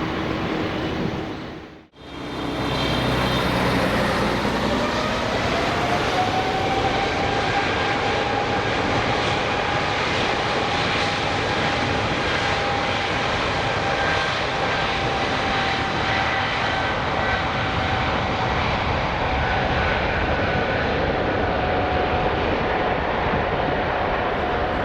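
Boeing 777-300ER's GE90-115B jet engines running at close range, with a loud rumbling roar under a whine that rises over a couple of seconds and then holds steady: the engines spooling up to takeoff power. About two seconds in, an earlier jet roar fades out and cuts to this one.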